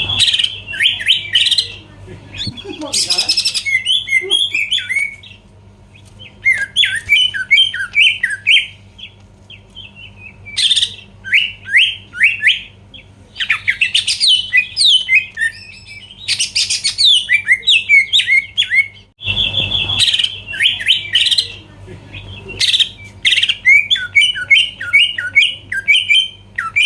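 Green leafbird (cucak ijo) in full song: phrases of fast chirping and whistled notes mixed with harsh, scratchy bursts, broken by short pauses. A faint steady low hum runs underneath.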